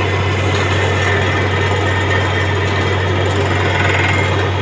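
Truck-mounted borewell drilling rig running steadily: a constant low engine drone under a loud, even rushing noise.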